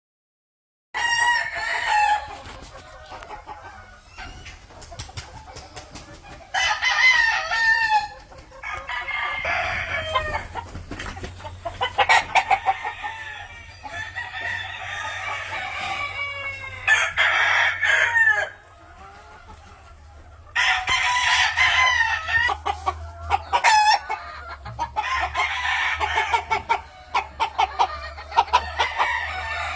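Several gamefowl roosters crowing one after another, the calls sometimes overlapping, with some clucking, over a steady low hum.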